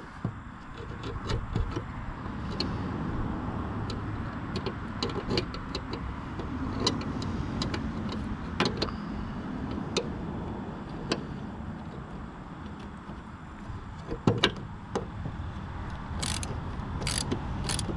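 Socket ratchet clicking in short runs as the bolts on a finish mower's bearing housing are tightened, with a quick run of clicks near the end, over a steady low rumble.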